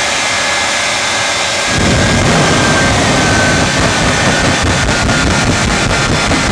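Jet engines of the Shockwave jet-powered semi truck running, a loud roar with a steady high whine; a deep rumble joins in sharply about two seconds in.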